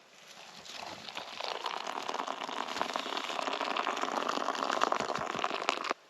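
Ground beef sizzling in a small pot over a fire: a dense crackling hiss that builds over the first second or so, holds steady, and cuts off suddenly near the end.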